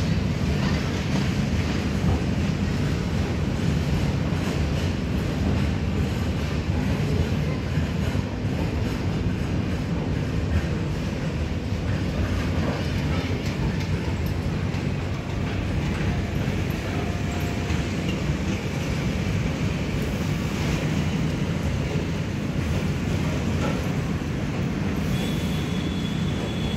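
Freight train of BFNV flat wagons loaded with steel coils rolling past, giving a steady rumble of wheels on the rails.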